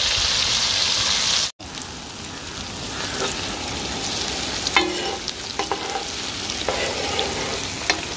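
Sliced shallots sizzling in hot oil on a large flat tawa, turned with a metal spatula. The sizzle is loudest for the first second and a half, drops out for a moment, then comes back softer with scrapes and clicks of the spatula on the pan.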